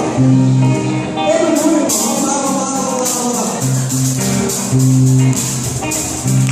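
Live worship band music: strummed guitar and jingling tambourine over sustained bass notes.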